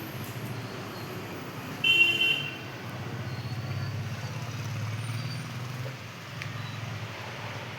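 Steady road-traffic rumble, with a short vehicle horn toot about two seconds in.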